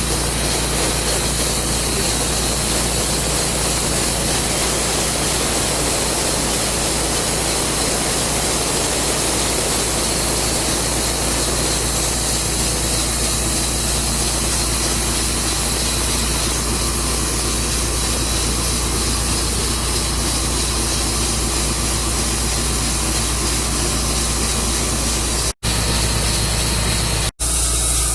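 Portable sawmill running steadily through a walnut log: engine hum under a loud, even hiss of cutting. It cuts out for an instant twice near the end.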